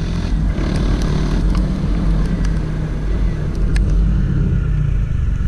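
Honda CG 160 Titan's single-cylinder four-stroke engine running steadily while the motorcycle is ridden along the road.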